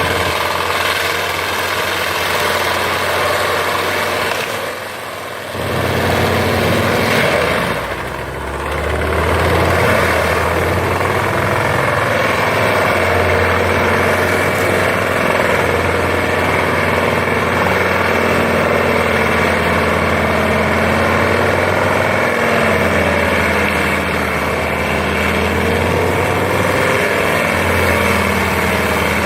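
370 hp Massey Ferguson tractor running steadily while driving a PTO-powered FAE forestry mulcher with a fixed-tooth rotor: a loud, continuous engine and rotor drone. It briefly drops in level about five seconds in and again about eight seconds in.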